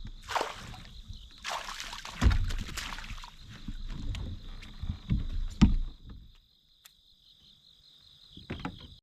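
Sounds of a fishing kayak on the water: irregular hollow knocks and thumps on the hull with short splashy noises, over a steady high whine. About six seconds in it drops to near silence.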